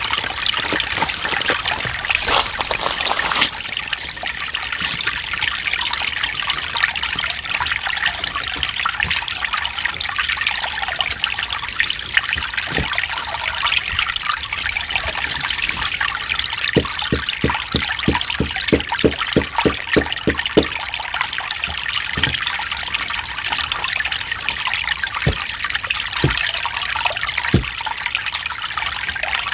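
Mountain stream running over stones: a steady rushing trickle of water. A little past the middle comes a run of sharp clicks or plops, about three or four a second, for a few seconds.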